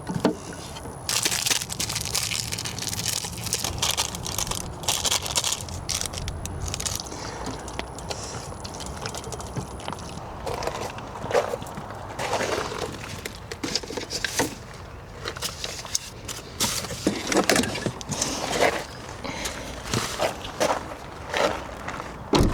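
Irregular scrapes and clacks of a utensil stirring food in a pan on a camp stove, over a steady low rumble.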